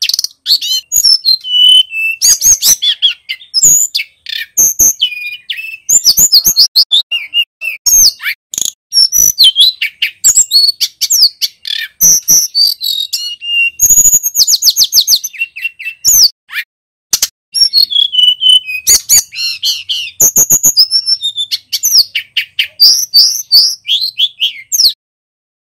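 Male tledekan gunung singing loudly and continuously: a fast, varied run of high-pitched chirps, whistled notes and rapid trills, stopping just before the end.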